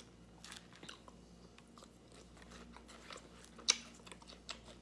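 A person chewing a mouthful of lettuce salad, with soft crunches and a sharp click a little past halfway.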